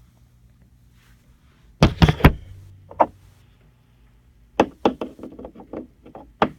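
Wooden toy train engine and trucks knocking together as the engine buffers up to its train. There is a quick cluster of three knocks about two seconds in and one more a second later. A run of sharper knocks and lighter clicks starts about four and a half seconds in.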